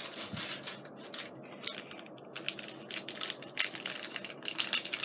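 Small plastic craft gems clicking and rattling against each other and their pack as they are rummaged through, the clicks coming thick and fast in the second half.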